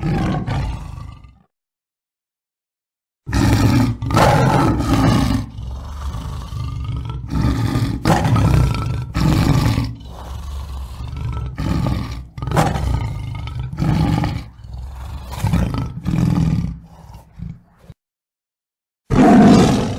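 Tiger roaring and growling: a short roar at the very start, then from about three seconds in a long run of deep roars one after another until near the end. A brief loud sound follows just before the end.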